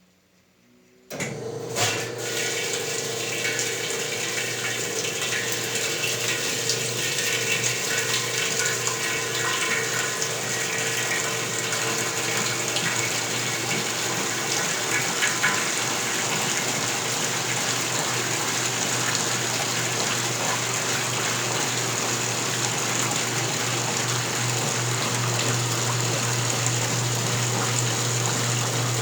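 1977 Westinghouse Lavínia washing machine: water starts rushing through it suddenly about a second in and then runs steadily, with a constant low hum underneath.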